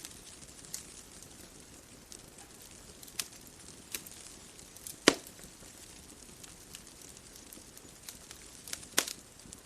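Wood fire crackling: irregular sharp pops and snaps over a soft steady hiss, with two louder pops, one about five seconds in and one near the end.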